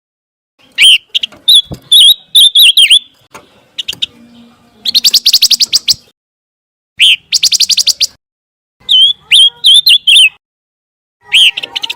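Pancawarna songbird singing: phrases of sharp, high whistled chirps alternate with fast, rattling trills, each phrase about a second long and separated by short pauses.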